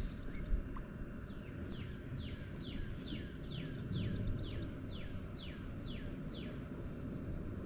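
A songbird singing a series of about a dozen clear whistled notes, each sliding downward, evenly spaced at a little over two a second, over a steady low outdoor rumble.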